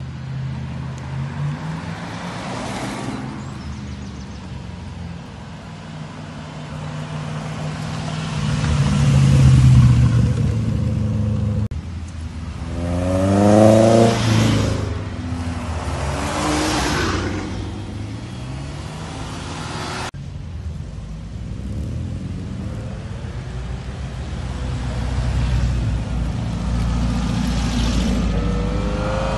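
Cars' engines running and accelerating as they drive past one after another. Midway, a Seven-style open two-seater with a side exhaust revs up rising in pitch as it pulls away.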